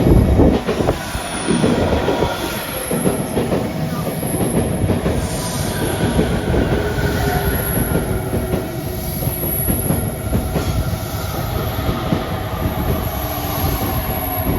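Train running on rails: a steady rumble of wheels on track, louder in the first couple of seconds, with thin whining tones above it, one slowly falling in pitch.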